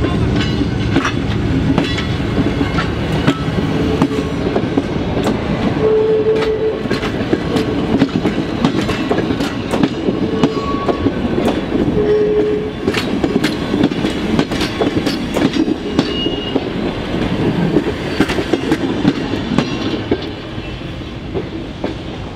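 Passenger coaches rolling past, their wheels clicking over rail joints in a steady rumble, with a few short squeals. The sound fades as the last coach goes by near the end.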